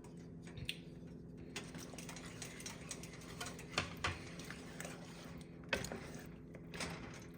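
A utensil stirring in a cooking pot, giving irregular light taps and clicks against the pot over a steady low hum.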